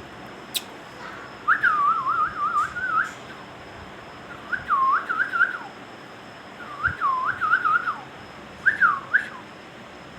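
Ringneck parakeet whistling a short warbling phrase four times. Each phrase is a swoop down and up followed by a quick run of up-and-down notes, with pauses between them.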